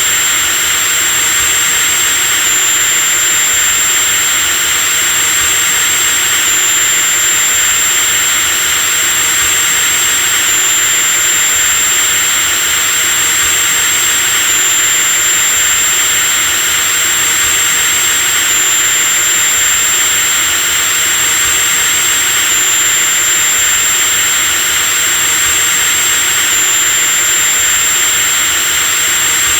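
Electric drill running continuously at constant speed: a steady high-pitched motor whine over an even hiss.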